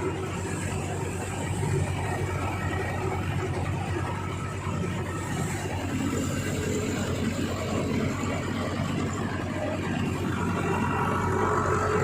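Digitrac PP51i 60 HP tractor's diesel engine running steadily, getting a little louder near the end.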